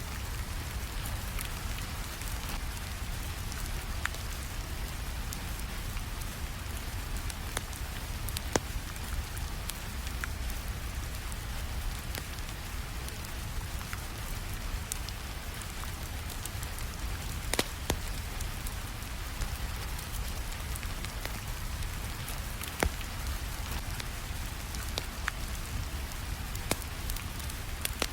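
Steady rainfall with a low rumble underneath, mixed with the crackle of a wood fire: scattered sharp pops and snaps, a few louder ones standing out.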